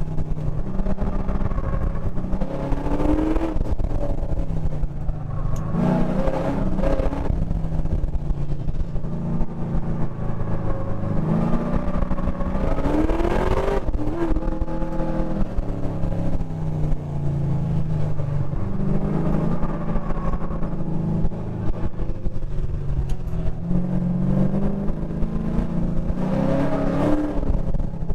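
LS7 7.0-litre V8 engine under hard acceleration and lifting off, again and again. Its pitch rises and falls throughout, with steep climbs about 3, 6, 13 and 27 seconds in.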